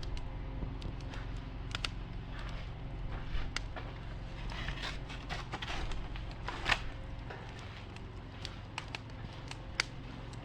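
Wood campfire crackling, with sharp pops and snaps at irregular intervals over a steady low background rumble.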